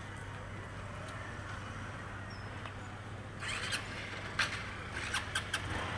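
Motorcycle engine idling steadily. About three and a half seconds in there is a short rasping noise, followed by four short, sharp, high-pitched sounds near the end.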